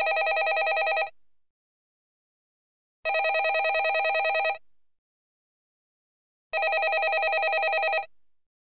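Landline telephone ringing: a ring that ends about a second in, then two more full rings, each about one and a half seconds of warbling ring that dies away briefly, with about two seconds of silence between rings.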